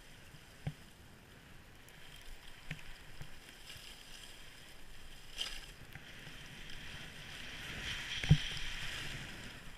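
Skis sliding over snow with a steady hiss that builds toward the end, broken by a few low thumps, the loudest about eight seconds in.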